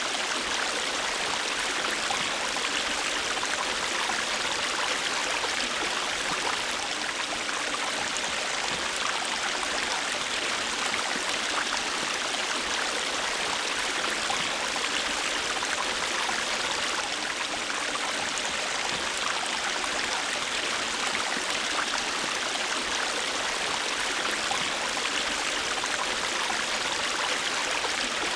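River water rushing and babbling steadily over stones, a continuous even rush with fine splashing detail.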